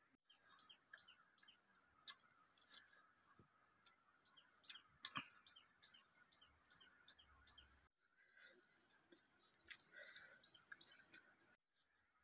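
Faint birds chirping in runs of short, falling chirps, over a steady high-pitched hiss, with a few sharp clicks and taps.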